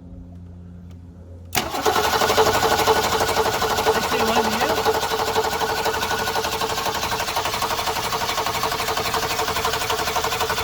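1966 Ford Mustang's 200 cubic inch straight-six being turned over by its starter motor, cranking steadily without catching for about nine seconds, cutting in suddenly a second and a half in. It is a no-start engine being cranked for a spark check, with spark present.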